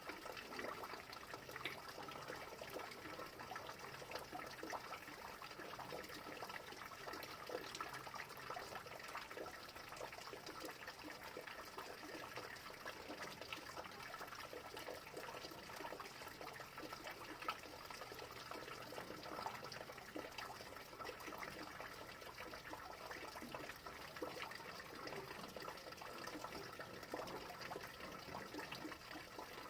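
Rain falling steadily, a constant wash of water sound dotted with the ticks of many individual drops.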